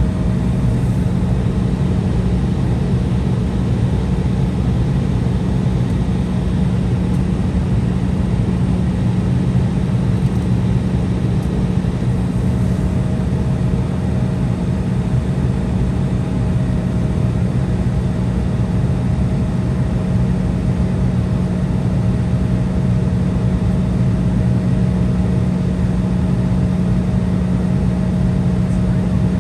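Embraer 175's twin General Electric CF34 turbofan engines running steadily, heard from inside the cabin as an even hum with a low drone and a fainter higher tone, holding without spool-up.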